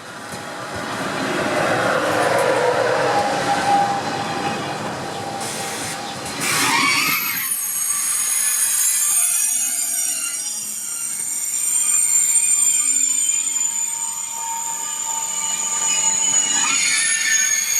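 Train running on the rails, its rumble building over the first few seconds, then a high, steady metallic squeal from the wheels and brakes that starts about seven seconds in and holds on.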